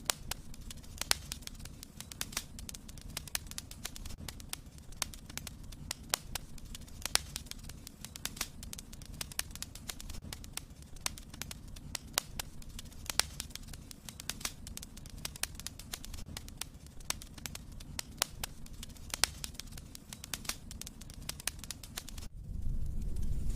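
Wood fire burning in a fireplace, crackling with frequent sharp pops over a low steady rumble. About a second before the end the crackling stops and a louder, steady hiss takes over.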